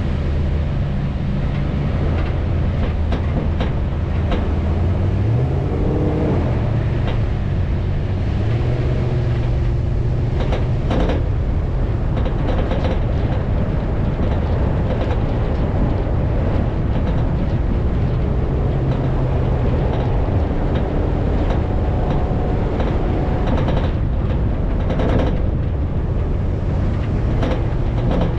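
An off-road vehicle's engine running while driving over sand, its pitch rising and falling, with scattered rattles and knocks, a cluster about eleven seconds in and another near the end.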